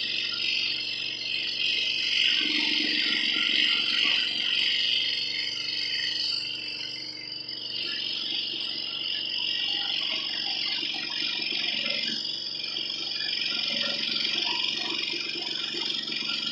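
Scroll saw running steadily, its blade reciprocating rapidly as it cuts.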